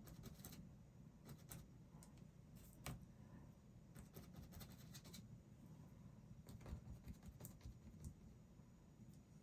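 Faint, irregular scratchy strokes and light taps of a paintbrush on canvas, over a low room hum.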